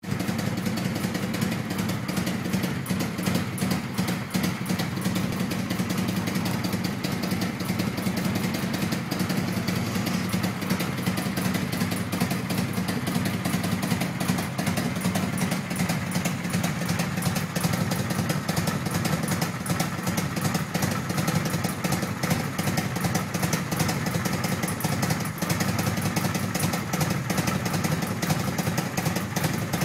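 Kawasaki VN 800's V-twin engine idling steadily.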